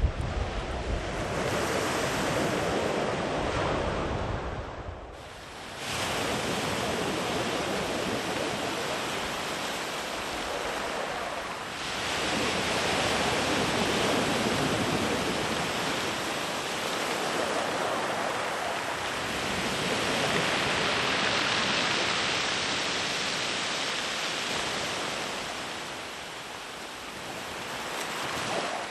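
Sea waves rolling in and washing far up the beach, a continuous surf wash that swells and ebbs. There is a brief lull about five seconds in, then fresh surges.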